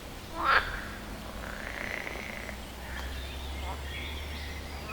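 A frog croaking twice: a loud, short, pulsed call about half a second in and a fainter one near the end, over a steady low rumble.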